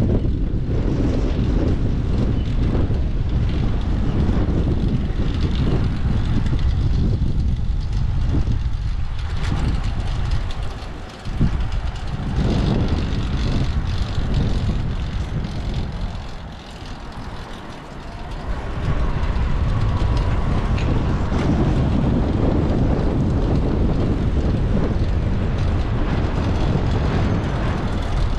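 Wind buffeting an action camera's microphone and city traffic noise while riding a bike through the streets. The rumble dips briefly about ten seconds in and again a few seconds later.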